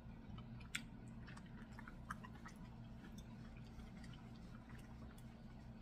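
A person chewing a mouthful of food, with faint, scattered wet mouth clicks.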